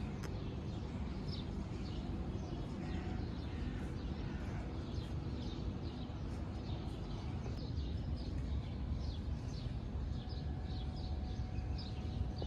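Small birds chirping: many short, high, falling chirps, over a steady low rumble.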